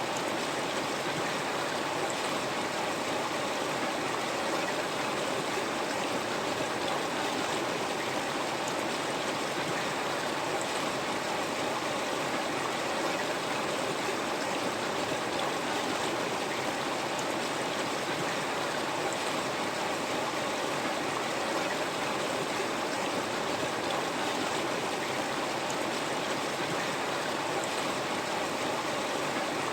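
River water flowing and rushing steadily over rocks, an even, unbroken wash of noise.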